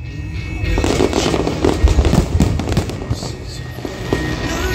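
Aerial firework shells bursting in a rapid, dense volley of bangs and crackles, thickening about a second in, with music playing underneath.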